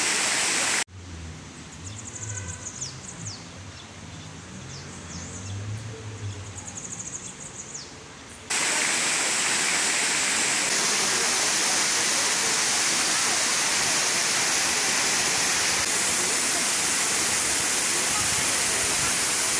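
Steady rushing of a forest waterfall. About a second in it cuts off abruptly to a quieter stretch with high, quick bird chirps and a low murmur. The rushing water comes back suddenly at about eight and a half seconds and runs on evenly.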